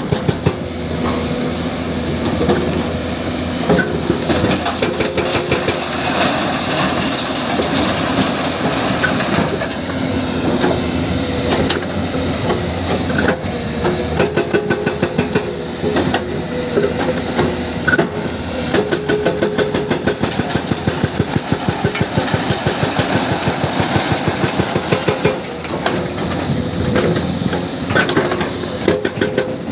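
Hydraulic breaker on a Komatsu PC210 excavator hammering rock in rapid, evenly spaced blows over the excavator's running diesel engine, with a steady run of blows near the end.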